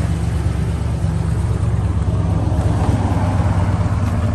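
1969 Chrysler Town & Country wagon's V8 running steadily on its fast idle shortly after a cold start, the choke still holding it on the high idle.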